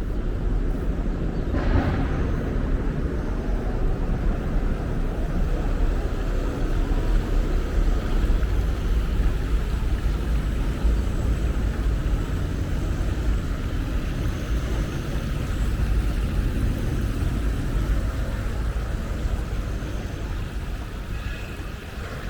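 Steady low rumble of outdoor background noise, with a brief noisy burst about two seconds in.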